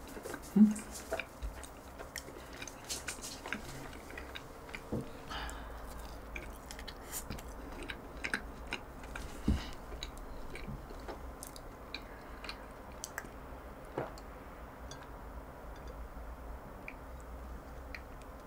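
Close-miked chewing of a soft, chewy cream-filled doughnut, with many small mouth clicks scattered throughout.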